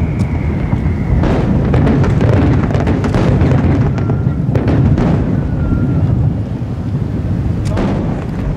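Aerial fireworks shells bursting: a continuous deep rumbling boom with sharp bangs about a second in, around three and five seconds, and near the end.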